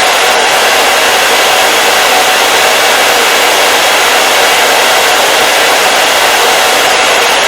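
Hair dryer running steadily: an even, unbroken rush of blown air, mostly in the middle and high range with little low rumble.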